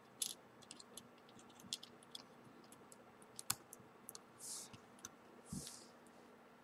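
Faint, scattered small plastic clicks and taps of a Samsung Galaxy S4's cards and parts being handled and pressed into place while the SIM card is fitted, with two short breathy hisses about halfway through.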